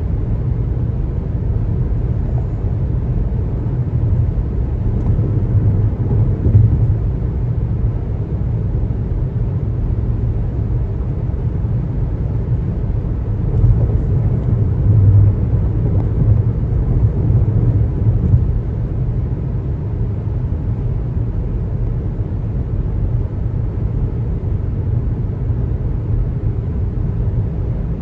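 Steady road and tyre noise of a car driving on a highway, a low rumble that swells slightly a few times.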